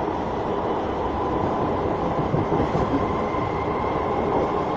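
Electric suburban local train (EMU) running at speed, heard from a window seat inside the carriage: a steady rumble of wheels on rails with a faint steady whine, and a few clacks over rail joints a little past the middle.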